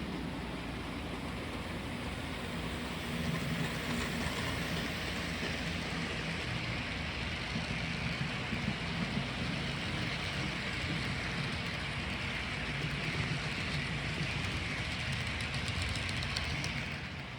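Model train running on the layout track: a steady whir and rumble that drops off near the end.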